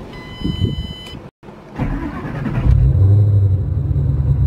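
The supercharged stroker V8 of a 2008 Ford Mustang GT, with MagnaFlow exhaust, cranks over and fires about two and a half seconds in. It flares up loudly, then settles into a loud, pulsing idle. A short steady electronic tone sounds just before.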